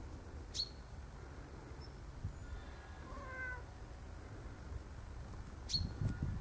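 Domestic cat meowing once, a short call that falls slightly in pitch about halfway through. Two short, sharp high chirps come near the start and near the end.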